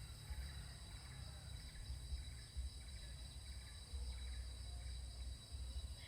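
Insects calling in steady high-pitched drones, over an uneven low rumble of wind or handling on the microphone.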